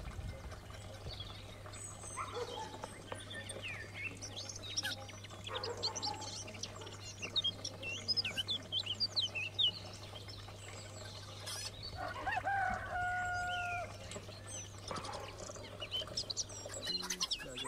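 A rooster crows once, about twelve seconds in, amid the chirping of small birds. A steady low hum runs underneath and stops near the end.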